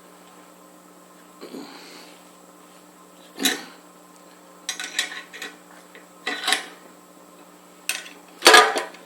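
Steel parts and hand tools clinking and clanking as they are handled, in about six short separate knocks, the loudest near the end.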